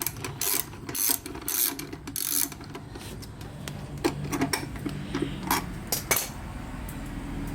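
A ratchet wrench clicking in short strokes as a bolt is backed out. There is a burst of clicks about every half second at first, then sparser single clicks.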